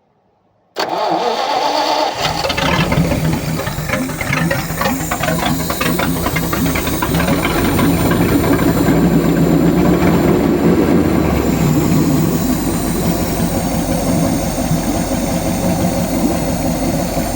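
ZIL-131's petrol V8, converted to homemade fuel injection, cranked by its starter about a second in and catching within a second or so on its first start, then running on steadily.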